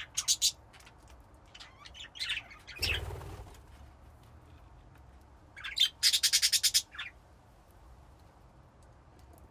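Budgerigars chirping: a few short chirps near the start, a brief rushing noise about three seconds in, then a quick run of sharp repeated chirps, about eight a second, around six seconds in, after which only a faint background remains.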